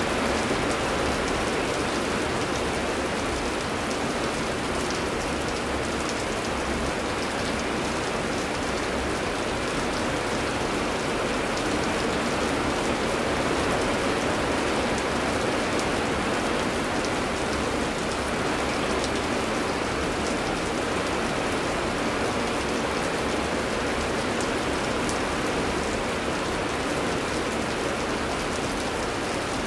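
Steady heavy rain, an even hiss that holds level throughout, with a few faint scattered drop ticks.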